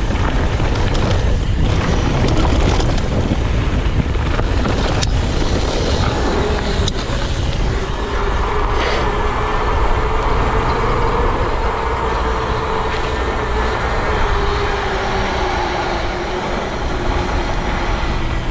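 Mountain bike ride noise from a bike-mounted or helmet camera: wind rushing over the microphone, tyres rolling over trail dirt, and knocks and rattles from the bike. About eight seconds in, a steady whine joins and carries on.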